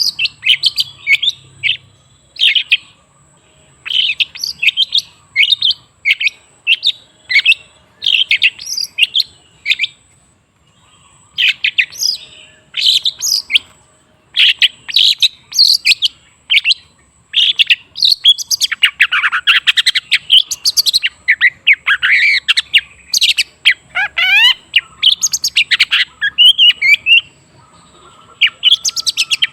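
Long-tailed shrike (cendet) singing: fast runs of sharp, high chirps in bursts, with short pauses between phrases and a longer break about ten seconds in.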